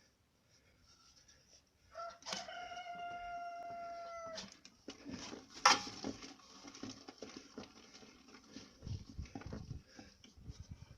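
A rooster crowing once, a single long held call that drops off at its end. A few seconds later comes one sharp knock, the loudest sound, then faint scattered clinks.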